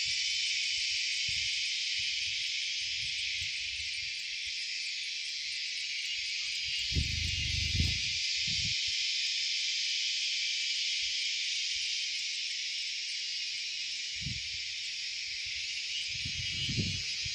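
Steady, dense chorus of insects shrilling outdoors, with two brief low rumbles, one about seven seconds in and one near the end.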